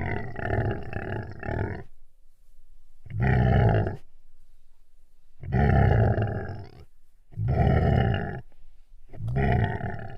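An animal calling five times in a row, each call lasting a second or two, with short pauses between them.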